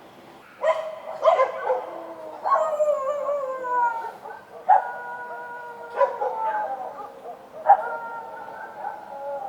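Street dogs barking and howling at night: a few sharp barks about a second in, then long drawn-out howls that slide down in pitch, each set off by a bark, with more than one dog calling at once.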